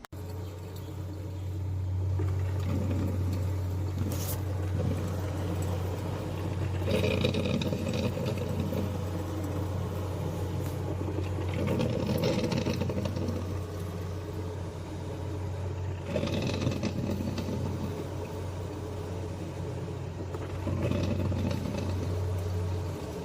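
PowerPac coffee maker brewing: a steady low electrical hum with bursts of gurgling and sputtering every four to five seconds as the heated water pushes up and drips through.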